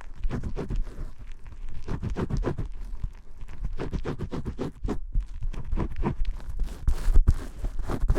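Vigorous shampoo-scrubbing sounds: hands rubbing and scratching rapidly in quick strokes, several a second. There is a brief break about five seconds in and a sharp click a little after seven seconds.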